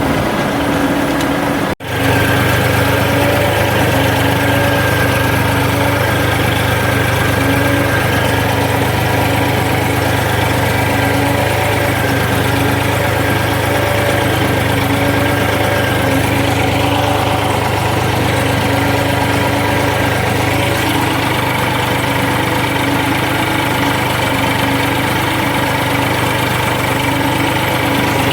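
Tractor's diesel engine running steadily at a constant speed. The sound drops out briefly just under two seconds in.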